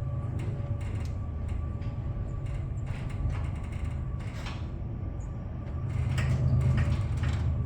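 Motor-driven machinery running: a steady low hum with a faint high tone, scattered clicks and creaks, growing louder about six seconds in.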